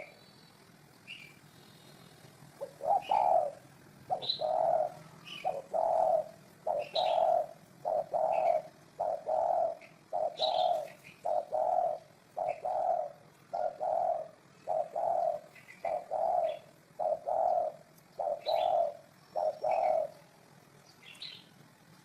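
Spotted dove cooing: a long run of low, evenly spaced coos, a little over one a second, starting a few seconds in and stopping near the end. Scattered short, high chirps from other small birds sound over it.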